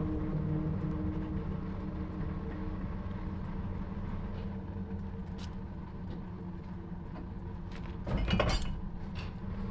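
Steady low machine hum, with a short burst of voices about eight seconds in.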